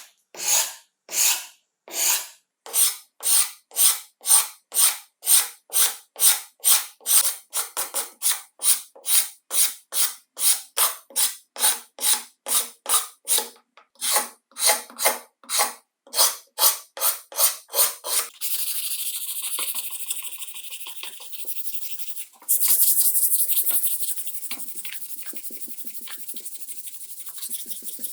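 Hand rubbing or rasping on a part of an old angle grinder under restoration: rhythmic back-and-forth strokes, about two to three a second and a little faster in the middle stretch. About two-thirds of the way in, the strokes give way to a steady, continuous rasping that grows louder for a while.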